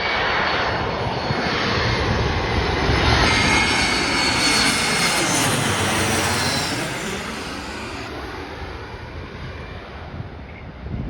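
Jet airliner passing overhead: its engine noise swells to a peak, with a whining fan tone, around the middle and then fades away.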